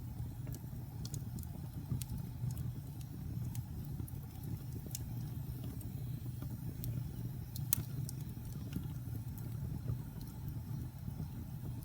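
Wood fire burning in a fireplace: a steady low rumble of flame with irregular sharp crackles and pops from the burning wood, one pop louder than the rest about two-thirds of the way through.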